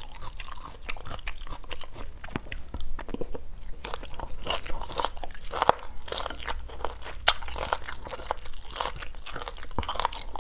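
Close-miked chewing of stir-fried chicken gizzard, a firm, crunchy meat: a run of irregular crisp crunches and bites.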